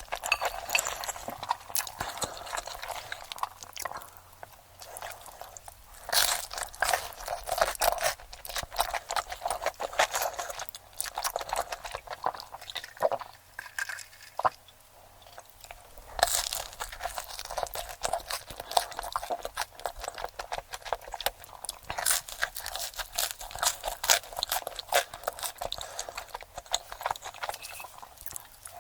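Close-miked mukbang eating sounds, sped up: rapid crunching, biting and chewing of crisp food as a dense stream of crackles, with louder crunching spells several times.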